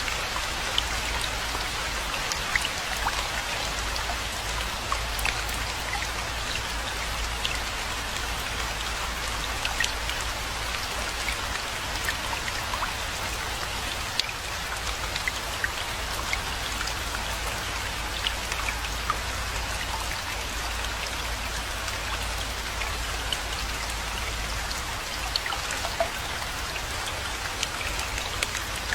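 Steady rainfall: an even hiss with scattered sharp ticks of individual drops striking, over a steady low rumble.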